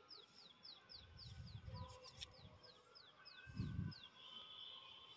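A small bird calling: a quick series of short, high, falling notes, about three a second, which stops about four seconds in. Low rumbles on the microphone come twice, and a thin steady high tone takes over near the end.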